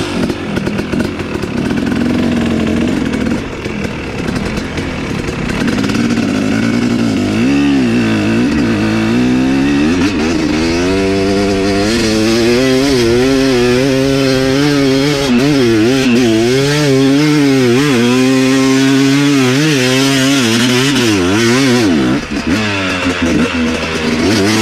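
Dirt bike engine under load, its pitch rising and falling again and again as the throttle is worked on a hill climb in soft dirt.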